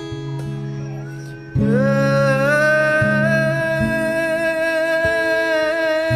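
Acoustic guitar strumming chords. About a second and a half in, a singer comes in with a note that slides up and is held as one long note almost to the end, over the changing chords.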